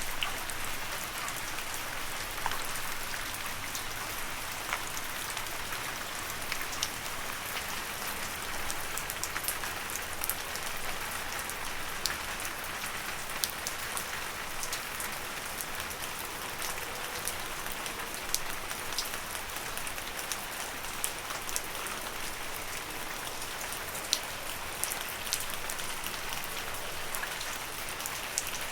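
Steady rain falling on leaves: an even hiss with scattered close drops ticking throughout.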